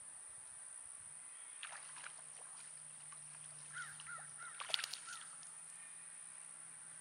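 A bird calling: a quick run of about five short, repeated notes about four seconds in, with a few sharp clicks around them, the loudest just before the run ends.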